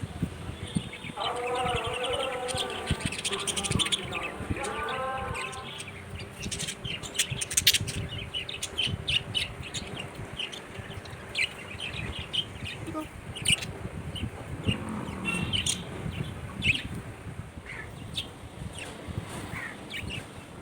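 Budgies chirping: many short, high chirps and clicks scattered throughout. A lower, drawn-out pitched sound runs through the first few seconds.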